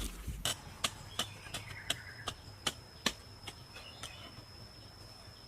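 A run of short, sharp chopping or tapping strikes, about two to three a second, thinning out past the middle. A steady high insect buzz runs underneath.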